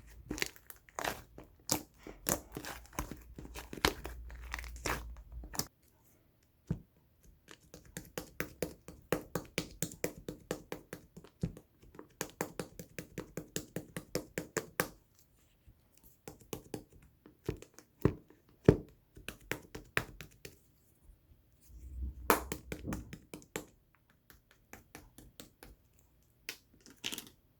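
Pink slime being squished and pressed by hand, making runs of sharp crackling clicks and pops, broken by short pauses about six seconds in and again near the end.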